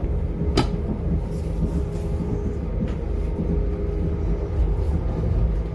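Passenger-cabin noise of a Northern class 195 diesel multiple unit under way: a steady low rumble from the underfloor diesel engine and running gear, with a faint steady hum over it. A single sharp click comes about half a second in.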